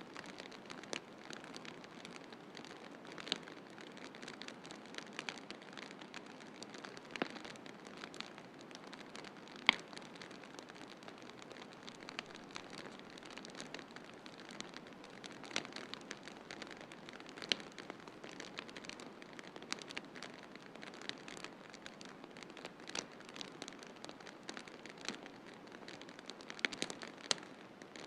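Wood fire crackling in a fireplace: a steady soft hiss with irregular sharp pops, the loudest about ten seconds in.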